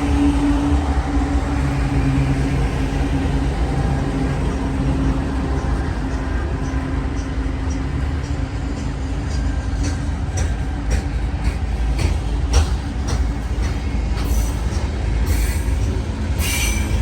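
A train rolling past with a steady heavy rumble of wheels on rail. From about halfway through come sharp clicks of wheels over rail joints, and near the end brief high-pitched wheel squeals.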